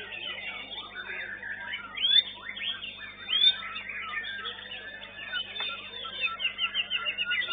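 Murai batu (white-rumped shamas) singing together, a dense tangle of overlapping whistles and chirps with a couple of louder notes about two and three and a half seconds in. A steady low hum runs underneath.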